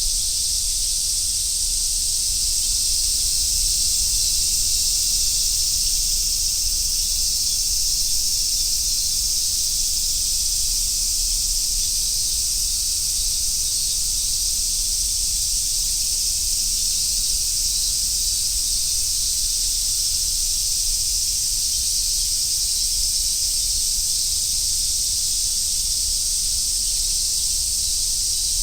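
Chorus of summer cicadas, such as large brown cicadas and robust cicadas, singing together in a steady, unbroken high hiss.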